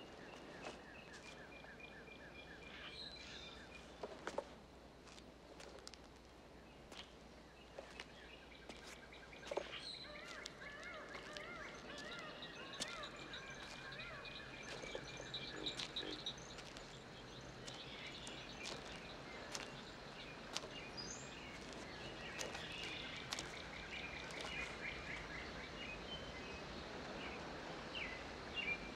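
Many birds chirping and calling at once over a faint steady hiss, with scattered sharp clicks.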